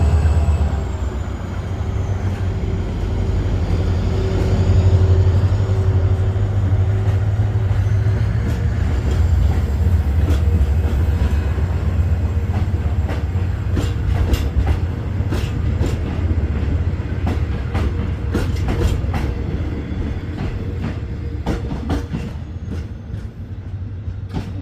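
Canyon tourist train pulling away. A low steady engine rumble dominates at first. From about ten seconds in, the cars' wheels click over the rail joints more and more often, and the sound slowly fades near the end.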